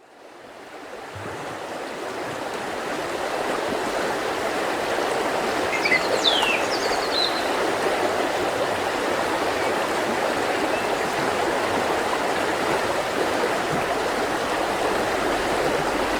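Mountain river flowing steadily, fading in from silence over the first few seconds. A bird gives a few short, falling chirps about six seconds in.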